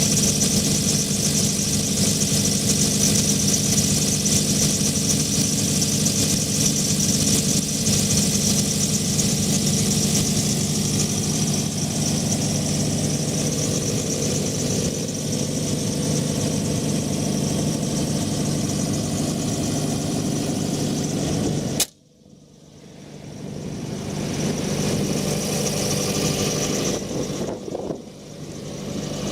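John Deere 4045HF four-cylinder turbo diesel of a 60 kVA generator set running steadily. About three-quarters of the way through, the sound drops out abruptly and builds back up over a few seconds.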